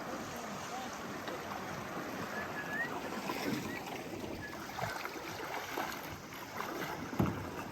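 Shallow creek water rushing steadily over low-water rapids, with a few scattered knocks, the loudest a sharp knock near the end.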